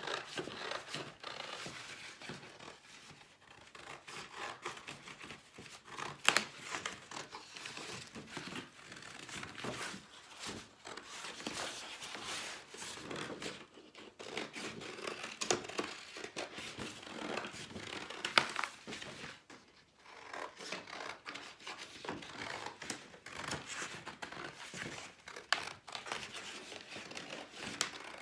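Scissors cutting through folded thin cardboard: a run of irregular snips with the card rustling and crinkling as it is turned, and a few sharper snaps.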